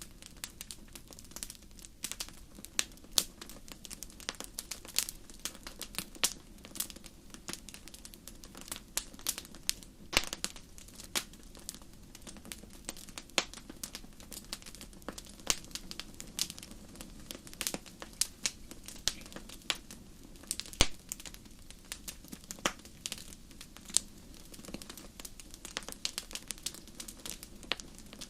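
Wood fire crackling in a fireplace: frequent irregular sharp pops and snaps over a low steady rumble of the flames.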